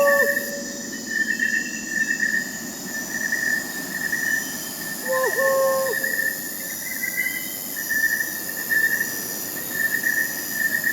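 Crickets chirping in a continuous pulsing trill, with a single short hooting call from an owl about five seconds in, and the tail of another right at the start.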